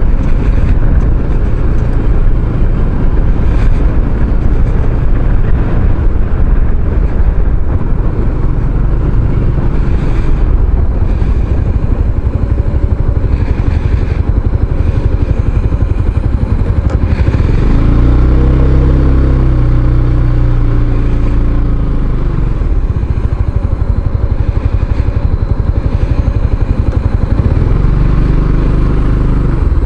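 Kymco Xciting 500 maxi-scooter being ridden, its engine running under a steady rush of wind on the helmet-mounted microphone. The engine pitch rises and falls about two-thirds of the way through.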